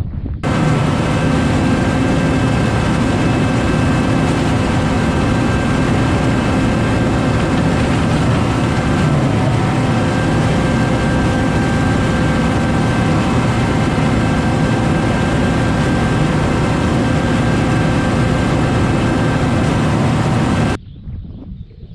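Tractor engine running at a steady speed, a constant drone. It starts suddenly about half a second in and cuts off abruptly about a second before the end.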